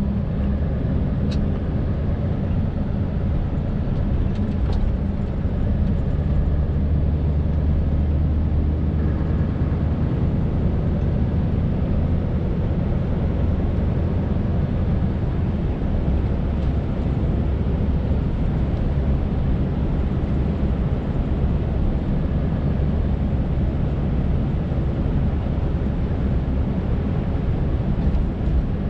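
Scania R580's V8 diesel engine running steadily as the truck drives, heard from inside the cab along with road noise.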